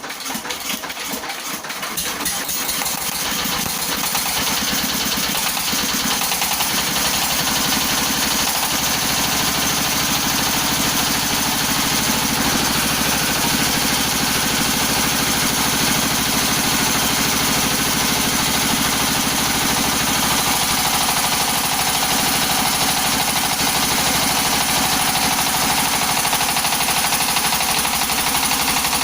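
Floating fish-feed pellet machine starting up, coming up to speed over the first few seconds and then running steadily. A deeper steady note joins about eight or nine seconds in.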